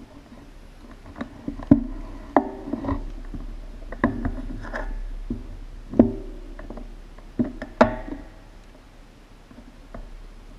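A series of sharp knocks and clacks at irregular intervals, each with a short ringing after it, the loudest about two seconds in, at six seconds and near eight seconds.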